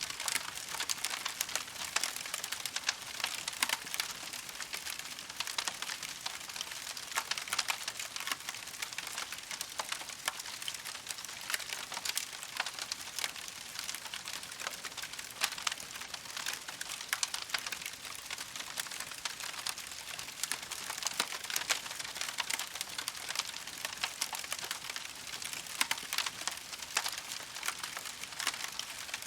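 Campfire burning steadily, with a constant dense crackle of small pops and snaps from the wood.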